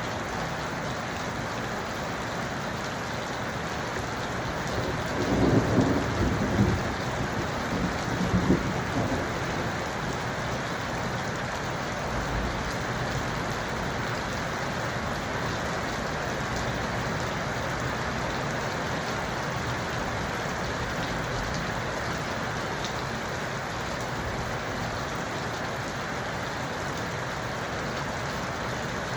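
Steady rain falling, with a roll of thunder rumbling for a few seconds about five seconds in.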